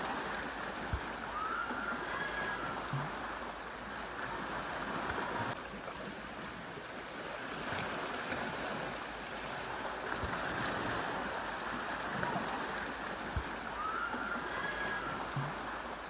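Sea waves washing onto a sandy beach: a steady surf noise that slowly swells and eases, with a couple of faint short rising chirps.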